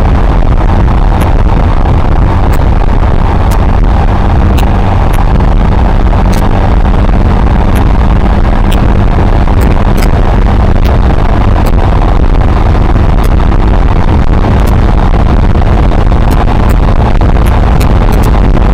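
Suzuki Marauder 125's single-cylinder four-stroke engine running steadily through its stock exhaust while the bike cruises, mixed with heavy wind rushing over the microphone.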